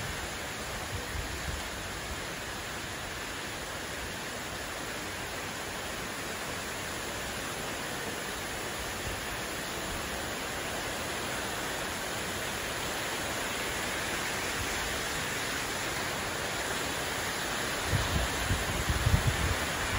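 Cloudburst rain pouring down steadily, a dense even hiss of heavy rain on roofs and wet roads. Some low rumbling swells in near the end.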